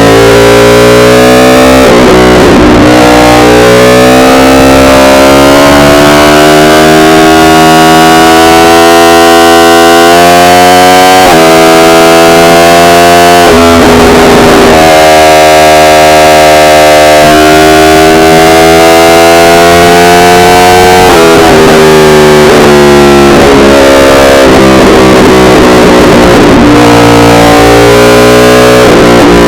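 Yamaha R1 inline-four engine accelerating hard: the pitch climbs steadily as the revs rise, then drops sharply at each upshift, several times over. The recording is very loud and clipped.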